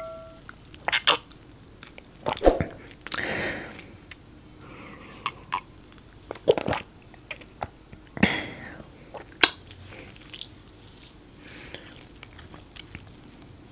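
Close-miked eating sounds: chewing and swallowing of chocolate cake and M&M's, with wet mouth clicks and a few crunches scattered irregularly.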